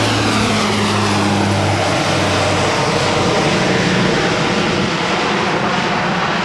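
Lockheed Martin C-130J-30 Super Hercules taking off, its four Rolls-Royce turboprop engines with six-bladed propellers running at high power in a loud, steady roar. A low steady drone fades out about two to three seconds in.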